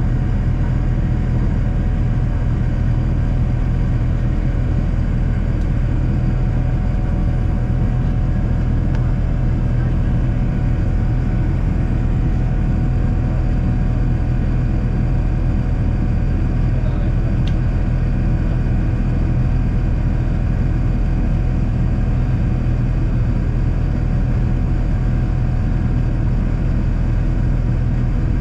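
Steady cabin rumble of a Boeing 787-9 in the air after takeoff: engine and airflow noise heard from inside the cabin, carrying a few faint steady tones.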